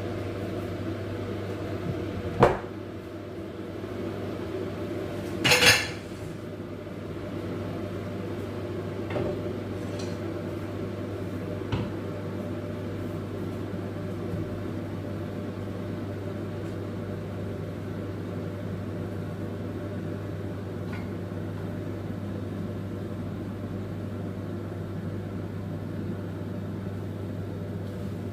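Kitchen pots and pans clanking now and then over a steady low hum: a sharp knock about two and a half seconds in, a louder clatter at about five and a half seconds, then a few fainter knocks.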